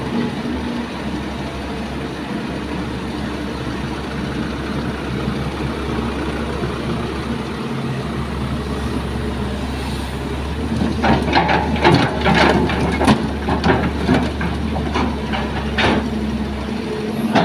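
Diesel engine of heavy earthmoving machinery running steadily with a low rumble. About two-thirds of the way through, a quick run of sharp knocks and clatter starts over it.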